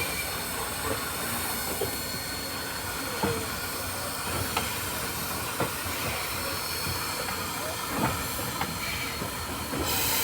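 Train rolling slowly, its wheels knocking over rail joints about once a second under a steady hiss. A loud burst of hiss comes near the end.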